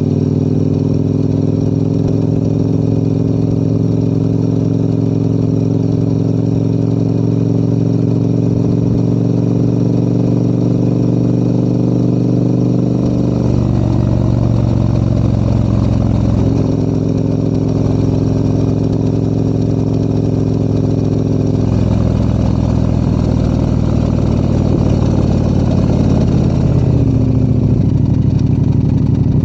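Adventure motorcycle engine running under way uphill, a steady engine note that changes pitch in steps a few times as the throttle or gear changes.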